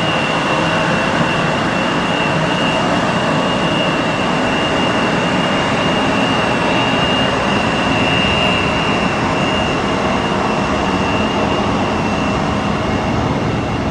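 Jet airliner's engines at takeoff thrust: a steady, loud roar with a constant high whine running through it.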